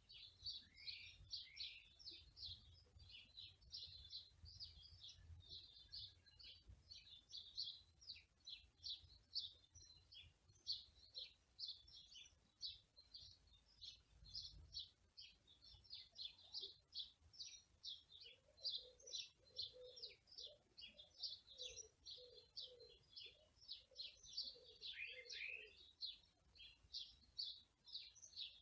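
Faint chorus of small songbirds chirping rapidly and continuously in high, quick notes. About two-thirds of the way through, a run of short, lower-pitched repeated notes joins in for several seconds.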